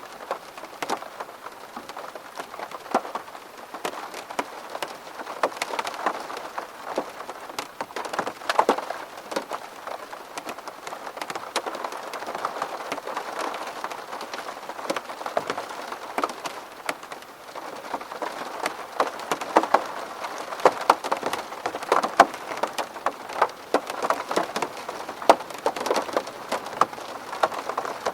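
Rain on window glass: a steady patter with many sharp, irregular drop hits.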